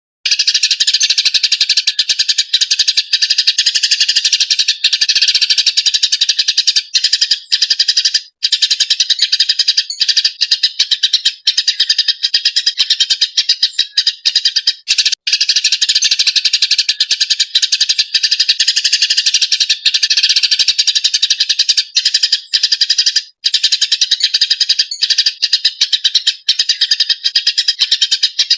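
Eurasian tree sparrows (burung gereja) chirping and chattering rapidly and without pause, a dense, agitated ('ngamuk') chatter broken only by a few momentary gaps.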